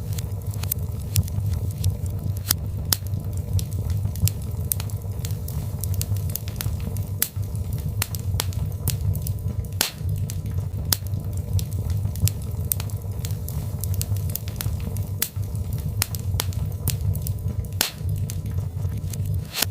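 Birch logs burning in a fireplace: many sharp, irregular crackles and pops, several a second, over a steady low rumble of the flames.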